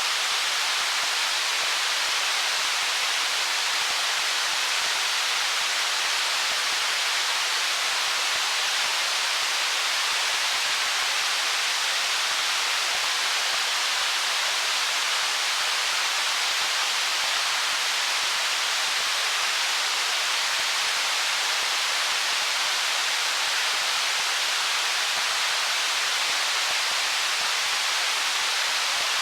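Stream water flowing over rocks: a steady, unbroken rushing hiss, bright and high with almost no low rumble.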